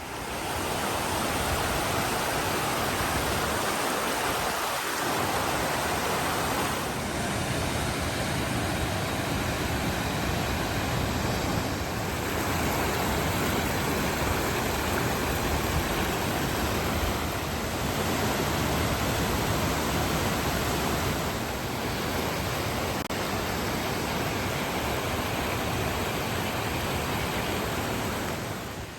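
Waterfall rushing: a dense, steady noise of falling water with no letup.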